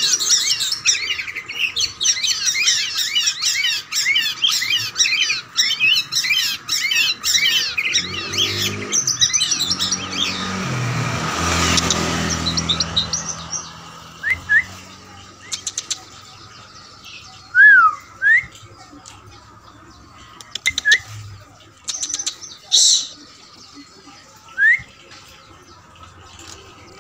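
Many caged songbirds chirping in quick, overlapping bursts, thinning after about ten seconds to occasional single whistles and gliding calls. A passing engine swells and fades around the middle.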